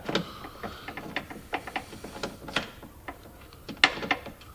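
Irregular clicks and light knocks from hand tools working the fasteners of the rear hatch's licence-plate trim, with a couple of louder knocks in the second half.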